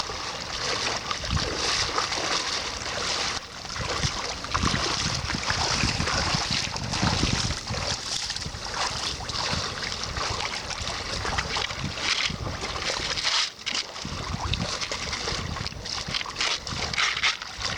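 Sea waves sloshing and splashing at the shore, with wind buffeting the microphone in irregular gusts.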